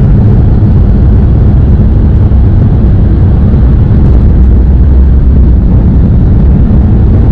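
Tohoku Shinkansen bullet train running at speed, heard from inside the passenger car as a steady, loud, low rumble.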